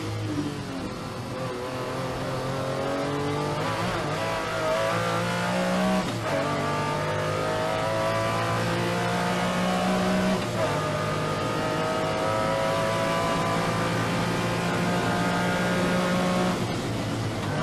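Lamborghini Diablo V12 engine under hard acceleration through the gears. The pitch climbs steadily in each gear and drops back at an upshift roughly every five seconds, three times.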